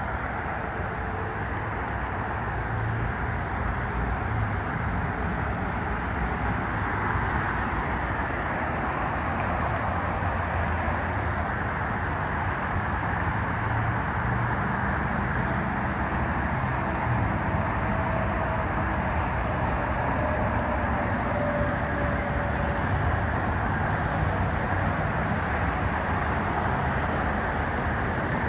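Steady wash of road traffic noise, with a faint passing vehicle tone in the middle.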